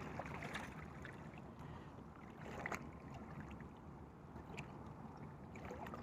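Faint outdoor background noise: a steady low rumble with a few light clicks and a soft rustle about two and a half seconds in.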